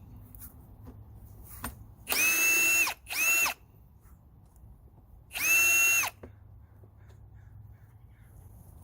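Cordless power drill run three times in short bursts: two close together about two seconds in and one about five seconds in. Each run spins up to a steady high whine and winds down.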